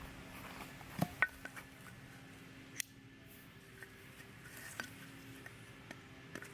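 A few scattered light clicks and knocks, about five, over a faint low hum.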